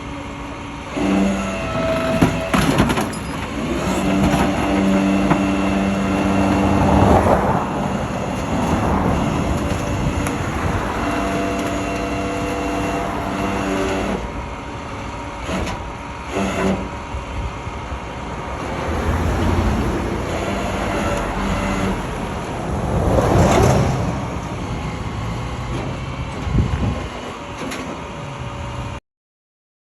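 A vehicle running, with a steady hum whose pitch steps up and down every few seconds, several louder swells and a few sharp knocks; the sound cuts off abruptly near the end.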